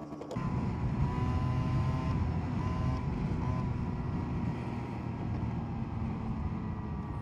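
SYM Jet2 50 scooter's 50 cc engine opening up from idle about half a second in, then running steadily under throttle while riding along.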